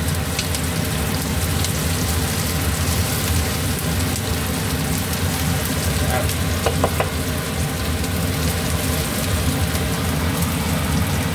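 Diced onion and garlic sizzling steadily in hot oil in a wok while being stirred with a wooden spatula; they are being browned until slightly charred.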